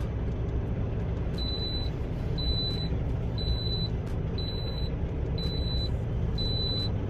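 Semi-truck diesel engine idling with a steady low rumble, while a vehicle's backup alarm beeps six times, about once a second, starting a little over a second in.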